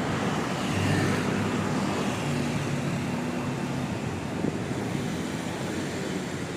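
City street traffic: the steady hum and tyre noise of passing motor vehicles, with an engine passing close and loudest about a second in, and a brief knock near the middle.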